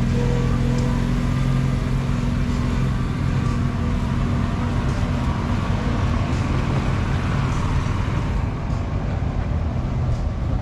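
An engine running at a steady speed, a constant low hum that weakens a little after the first few seconds.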